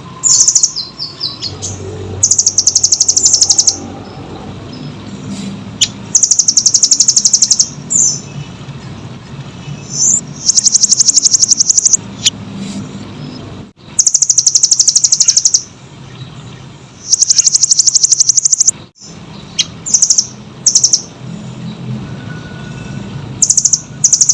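Nuthatch song: rapid, loud trills of high notes, each burst lasting about one to two seconds and repeated every few seconds, with a few shorter single calls between them.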